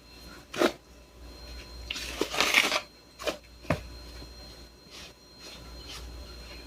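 Kitchen handling sounds while a dough is being put together: a clack, then a short rustling scrape, then a couple of light knocks of utensils and containers.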